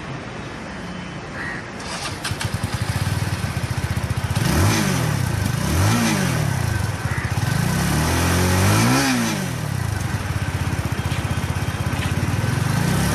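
Benelli TNT 25's single-cylinder four-stroke engine idling, heard through its exhaust, with the throttle blipped three times, the third rev held longer. The exhaust gets louder about two seconds in.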